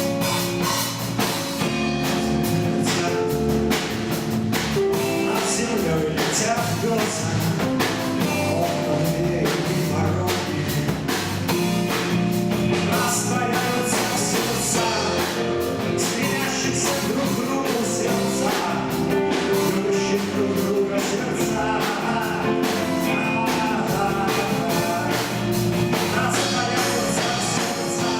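A rock band playing live: drum kit keeping a steady beat under electric guitar and bass.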